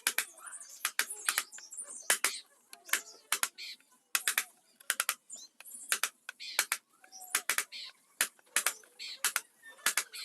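Carving chisel struck with a mallet into teak wood: sharp taps, many in quick pairs, coming about twice a second.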